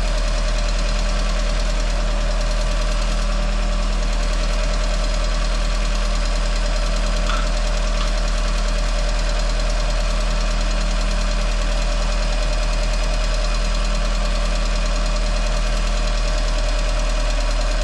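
Freshly rebuilt VW Sharan 1.8T turbocharged four-cylinder running steadily, with a tick-tick from its new hydraulic lifters, which have not yet filled with oil.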